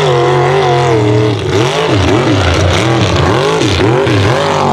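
Unlimited-class mega truck engine running hard at high revs. It holds steady for about a second and a half, then the revs rise and fall rapidly, about twice a second.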